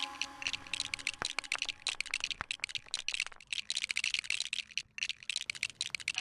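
Plastic LEGO pieces clicking and clattering in a rapid, irregular run of sharp ticks as they are handled and pressed together.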